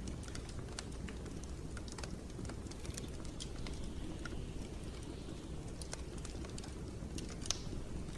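Wood fire burning in a fireplace: irregular crackles and snaps over a low steady rumble of flame, with one sharper pop near the end.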